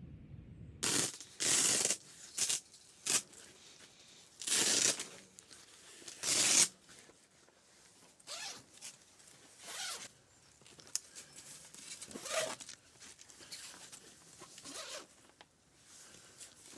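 A series of short rasping strokes, each under a second long. About six loud ones come in the first seven seconds, followed by fainter, more spaced ones.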